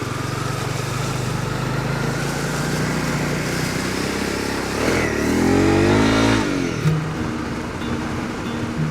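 Honda CRF250 Rally's single-cylinder four-stroke engine running with wind noise over the rider's microphone. About five seconds in it revs up and rises in pitch, then drops away about a second and a half later.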